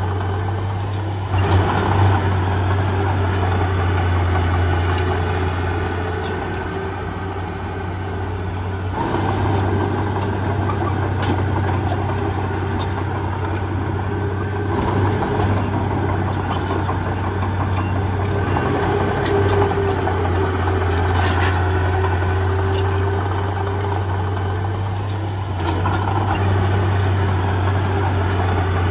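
Diesel engine of heavy earthmoving machinery running steadily, with scattered short clicks and clanks over it.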